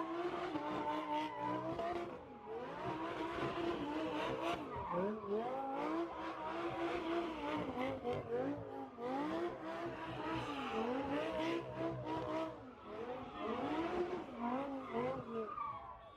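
A car doing a burnout: engine revving and tyres squealing on pavement, the pitch rising and falling again and again.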